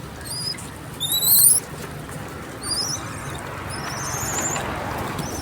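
A series of short, very high-pitched chirps and rising squeaks from small animals, loudest about a second in, over a faint low steady hum.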